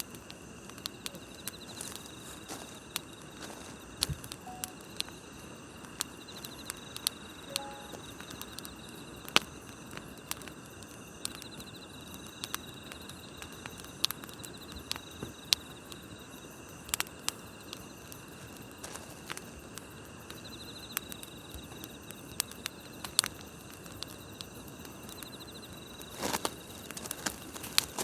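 Wood campfire crackling, with sharp pops at irregular intervals and a denser run of crackles near the end, over a steady chorus of night grass insects chirring, with short repeated trills.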